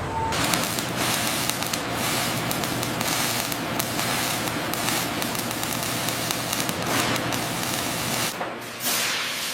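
A steady hiss of spray or escaping air that starts suddenly, runs for about eight seconds and cuts off, followed near the end by a second, shorter burst.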